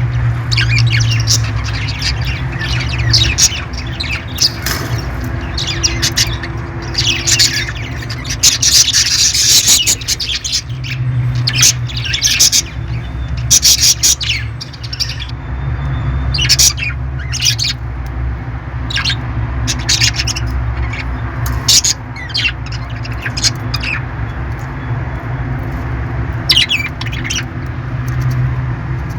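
Parrots squawking and chirping in quick, irregular short calls, with a denser burst of squawking about a third of the way in, over a steady low hum.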